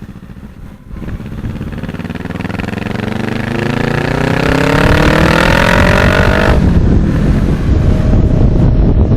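Kawasaki 650 parallel-twin motorcycle accelerating, its engine note rising steadily in pitch and growing louder for about five seconds. About six and a half seconds in the rising note cuts off, leaving a loud rush of wind on the microphone.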